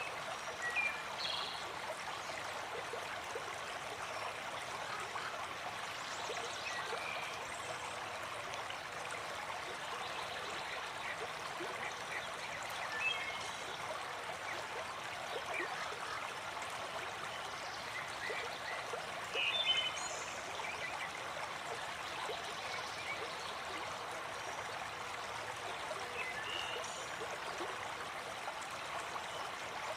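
Waterfall water running and splashing steadily, an even rushing with no pauses.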